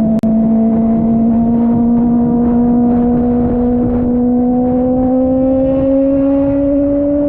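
Kove 450RR motorcycle's single-cylinder engine running on the road, its pitch rising slowly and steadily as it pulls in one gear.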